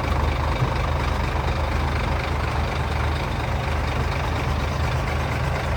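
Diesel engine of a self-loading concrete mixer truck running steadily with a low, even drone.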